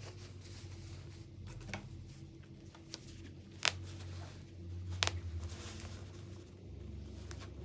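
Hands handling cloth and tools: soft rustling with a few sharp clicks, the two loudest about three and a half and five seconds in, over a steady low hum.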